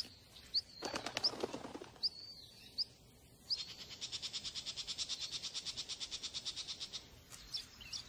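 Small birds calling: a few short, high, rising chirps, with a brief lower rustle about a second in, then a rapid high trill lasting about three and a half seconds, and a few more chirps near the end.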